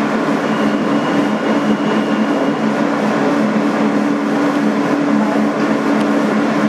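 Interior of a Kawasaki R-160B subway car: a steady rumble with a constant low two-tone hum from the car's equipment, and no rise or fall in pitch.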